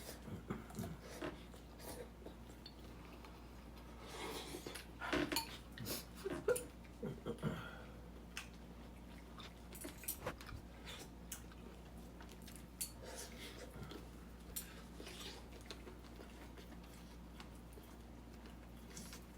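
Eating utensils clinking and scraping against a bowl during a meal: scattered light clicks and taps, busiest about four to eight seconds in.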